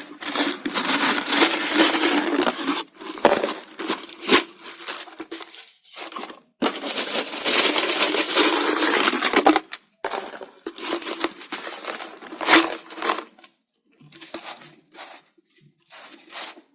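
Hands handling crafting materials: two long stretches of rustling and crinkling, with scattered clicks and taps between them.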